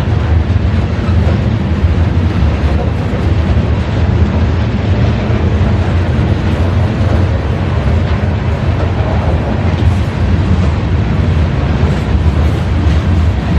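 CSX freight train passing close by: a steady, loud rolling noise of railcar wheels on the rails, with faint repeated clicks.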